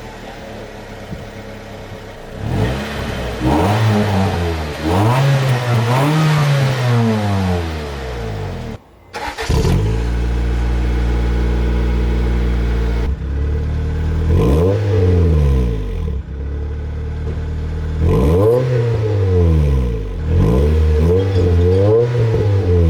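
1991 Acura Integra's 1.8-litre four-cylinder running through a freshly fitted HKS Hi-Power aftermarket exhaust, loud, idling and blipped repeatedly into short revs that rise and fall in pitch. The sound drops out briefly about nine seconds in, settles to a steady idle, then is revved again several times.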